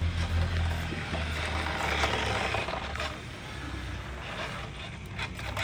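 Steady low rumble of a car heard from inside while riding, with a swell of hissing noise about two seconds in and a few faint clicks near the end.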